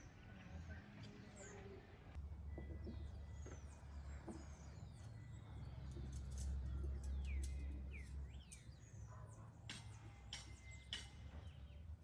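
Several birds chirping and calling in short, quick notes over a faint low rumble, which swells about six to eight seconds in.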